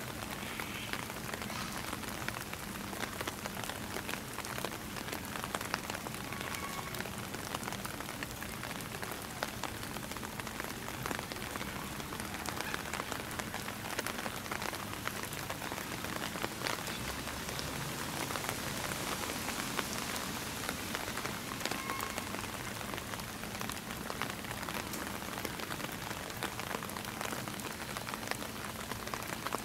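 Steady rain falling, heard as an even hiss dotted with many small drop ticks hitting surfaces.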